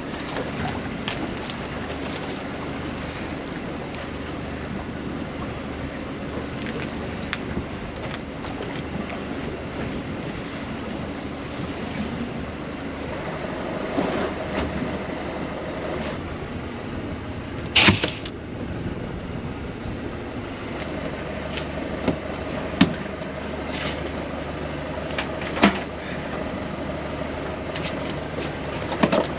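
Small boat's engine running steadily, with scattered sharp knocks on the boat; the loudest knock comes about 18 seconds in.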